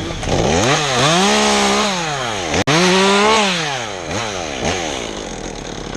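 Two-stroke chainsaw revving up and dropping back twice, each rev held about a second and a half, then running lower.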